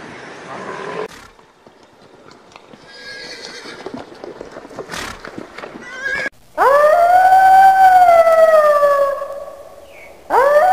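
Horse neighing: one long, loud whinny that rises, holds and falls away over about three seconds. A second whinny starts just before the end and is cut off. Scattered quiet knocks come before it.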